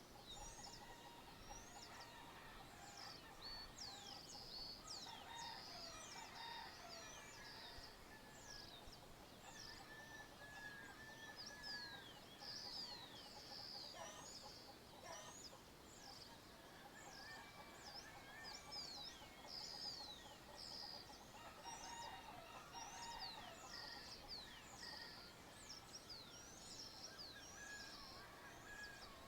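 Faint dawn chorus of many birds, with quick high chirps overlapping throughout and some lower, longer song phrases among them.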